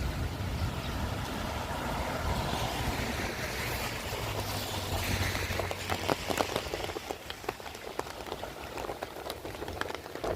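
Rain on a wet street: a steady rushing wash with a low engine hum in the first half as a vehicle goes by, then irregular sharp drops tapping from about the middle on.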